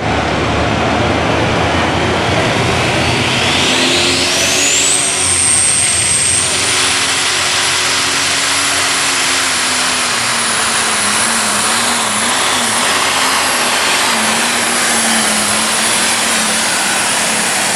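Diesel super stock pulling tractor running at full throttle under load: a loud engine drone with a high turbocharger whine that climbs over the first few seconds as the turbo spools up. The whine holds high while the engine note wavers, then falls away right at the end as the throttle closes.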